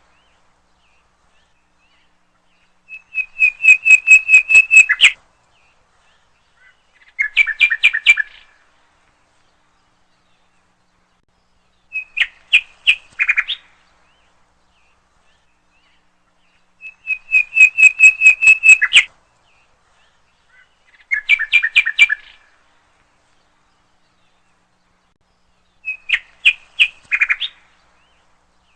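A songbird singing short phrases of rapid clear notes, six phrases with pauses of a few seconds between them.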